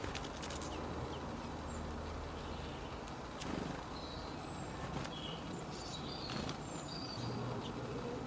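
Steady outdoor background noise with a low hum. Small birds give short, high chirps, scattered from about three and a half seconds in.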